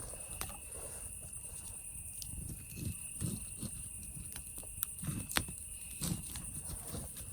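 Campfire crackling, with scattered sharp pops, the loudest about five seconds in, and soft low puffs of flame, over a steady high-pitched chorus of cicadas.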